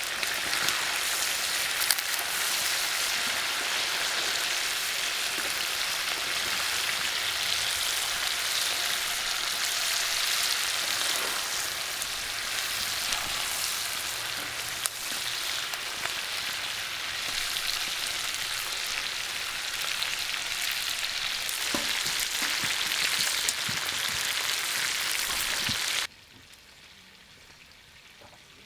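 Food sizzling as it fries in a pan: a steady hiss with a few sharp pops. It cuts off abruptly near the end, leaving only a faint background.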